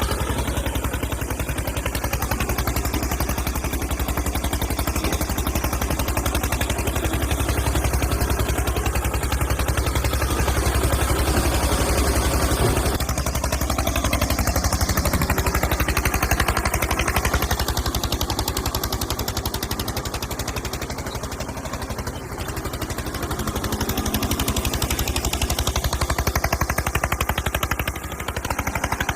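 Tractor engine running steadily with a rapid, even chugging beat, easing off slightly about two-thirds of the way through before picking up again.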